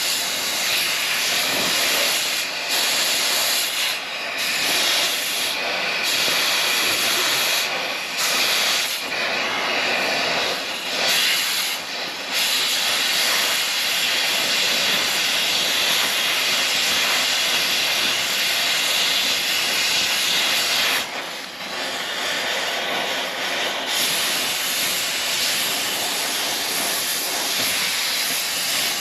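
Cutting torch hissing steadily as it burns the bolts off a dozer's track pads, the hiss dipping briefly now and then, with a longer dip about three-quarters of the way through.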